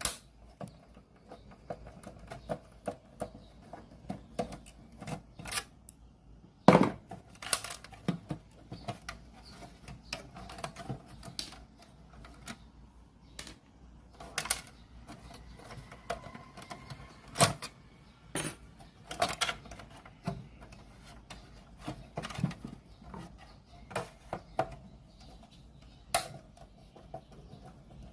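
Irregular clicks, taps and knocks of small tools and parts being handled during electronics repair work, with one sharper knock about seven seconds in.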